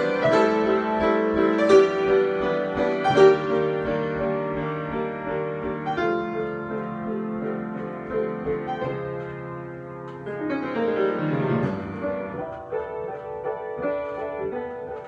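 Solo piano improvisation: struck notes and chords ringing on, with a new chord coming in about ten and a half seconds in.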